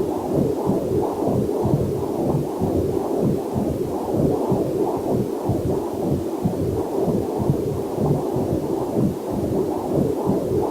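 Heartbeat picked up by a fetal Doppler monitor: a fast, even train of muffled whooshing pulses, with a faint waterfall hiss mixed in underneath.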